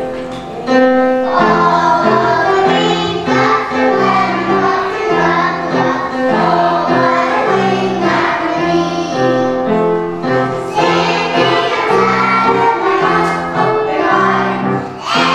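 A choir of children singing a song together.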